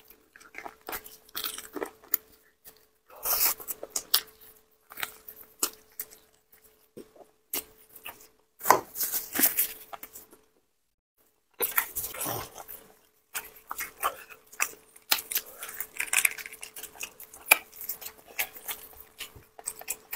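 Close-miked chewing, biting and sticky wet mouth sounds of a person eating a spicy braised pig trotter, in irregular bursts with a short pause about halfway.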